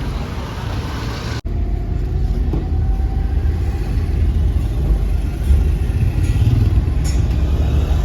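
Street traffic noise: a steady, low rumble of passing vehicle engines, cut by a brief dropout about a second and a half in and growing a little louder later on.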